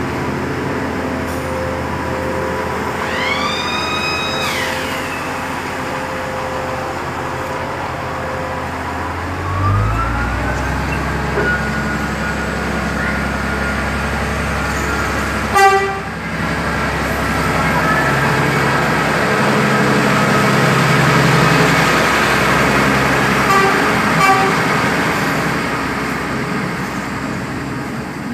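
Diesel train running, with a short horn blast a few seconds in whose pitch rises and falls. About ten seconds in the engine note climbs and grows louder as the train picks up power, with a single sharp knock a few seconds later.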